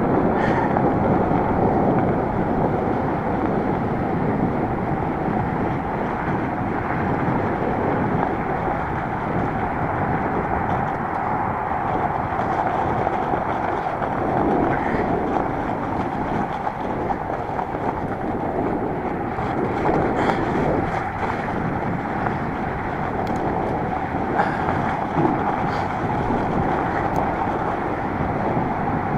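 Fat bike tires, 26x4 at 5 psi, rolling steadily over packed snow and ice, with wind on the microphone.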